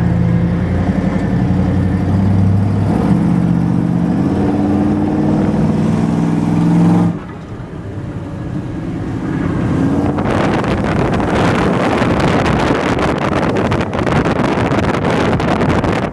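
Monster truck engine revving, its pitch climbing for about seven seconds before it drops off suddenly. From about ten seconds in, a loud, rough rush of wind buffeting the microphone takes over.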